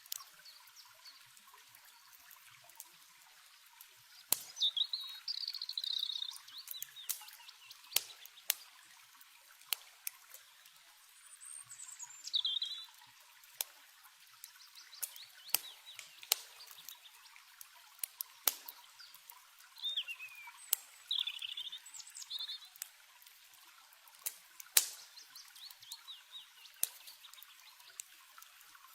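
Campfire crackling with scattered sharp pops over a steady hiss of flowing water, with birds calling now and then: a few short chirping phrases, one sliding down in pitch about twelve seconds in and another pair around twenty seconds.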